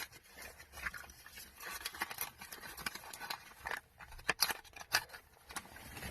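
Scattered light clicks and crinkly rustles of small items and their packaging being handled.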